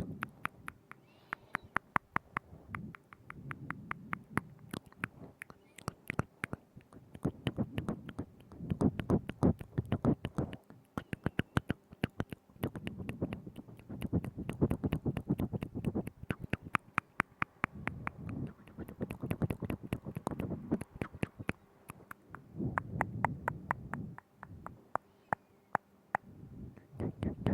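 Close-miked mouth sounds: rapid wet clicks and smacks of the tongue and lips, coming in clusters every couple of seconds.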